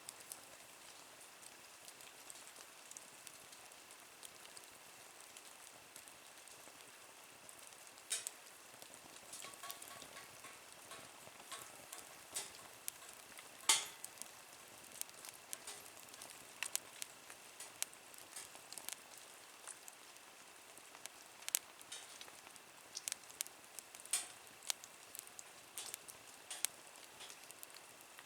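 Wood fire burning in a small Nature Stove, crackling with scattered sharp pops over a faint hiss; the loudest pop comes about halfway, and the pops come more often in the second half.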